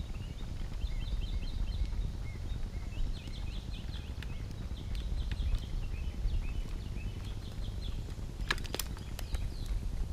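Small birds chirping in quick repeated short notes over a steady low wind rumble on the microphone, with a few sharp clicks about eight and a half seconds in.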